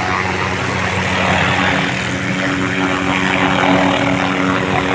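Steady drone of an aircraft engine and its blades, holding an even pitch.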